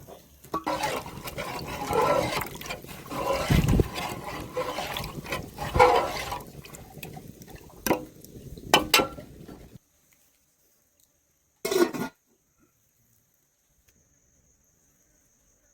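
Water sloshing and splashing in uneven surges for about ten seconds, then it stops abruptly, leaving near silence broken by one short splash-like burst.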